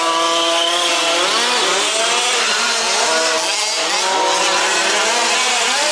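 Several 1/5-scale RC off-road trucks racing, their small two-stroke petrol engines revving up and down over one another in overlapping whines.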